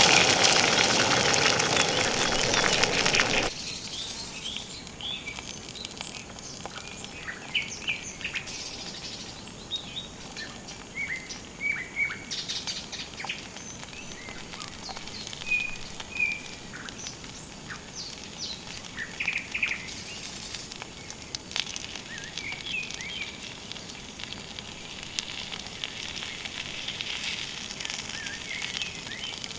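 A loud rush of water that cuts off suddenly about three seconds in. After it come scattered short bird chirps over a faint steady background.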